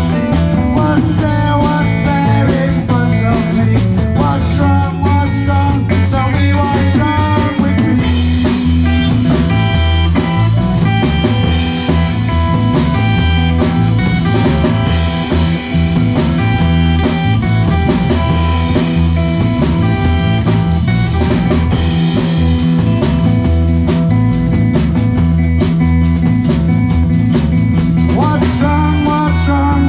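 Live rock band playing an instrumental passage: a drum kit keeping a busy beat over steady bass and guitar, with a heavy cymbal wash coming in about eight seconds in.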